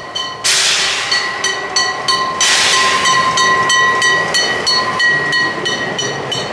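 Narrow-gauge train running, with a rapid, even clicking about four times a second and two loud bursts of hiss about two seconds apart.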